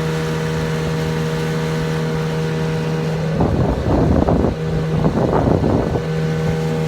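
Sea-Pro 9.8 outboard motor running steadily under way while being broken in, a constant drone. About three seconds in, two stretches of louder rushing noise sound over it for a few seconds.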